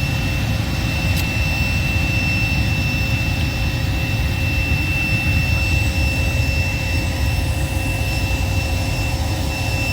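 Jet engine running steadily at idle: a constant low rumble with a thin, high, steady whine over it.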